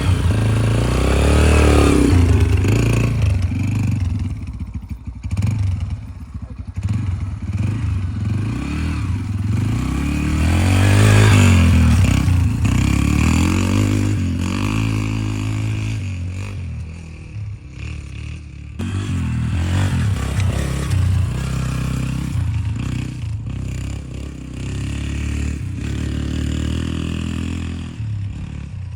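Yamaha TT-R125 dirt bike's four-stroke single-cylinder engine being ridden, revving up and easing off again and again, swelling as it comes near and fading as it moves away.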